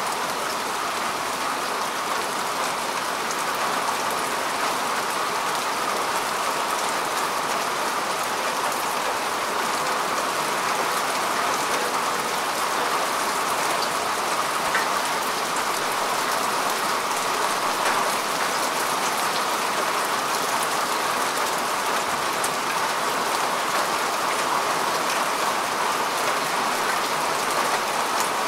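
Steady rain falling on grass and soil: an even hiss of many drops, with fine scattered drop ticks.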